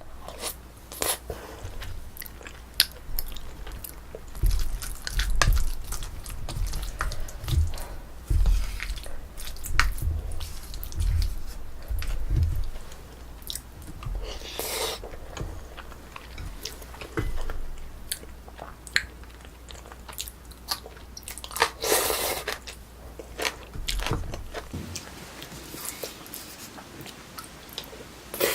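Close-miked chewing and biting of braised spicy chicken with potatoes and rice: irregular wet mouth clicks and soft low thumps, with two longer noisy rushes about 15 and 22 seconds in.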